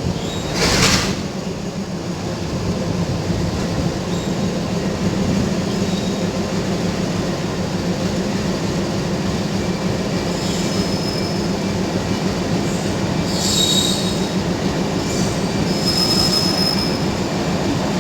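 Passenger train rolling into a station platform, its wheels rumbling steadily on the rails. Short high-pitched wheel squeals come three times in the second half as it slows.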